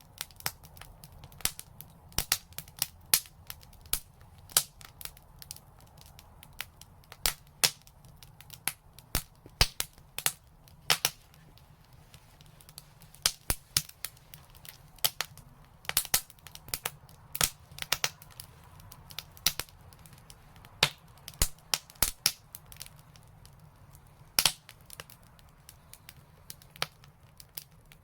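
Wood fire crackling, with sharp irregular pops and snaps several times a second over a faint low hum.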